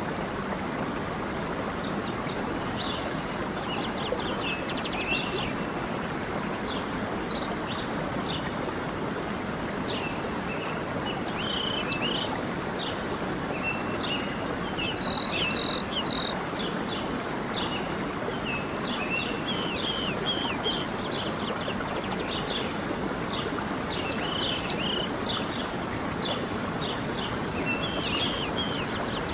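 A stream running steadily, with several birds chirping and singing short warbled phrases over it throughout.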